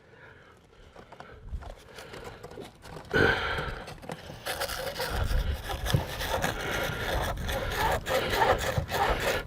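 Abrasive rubbing on the end of a CPVC pipe, roughing up its surface for a glued coupling. The scraping starts about three seconds in and turns into steady back-and-forth strokes.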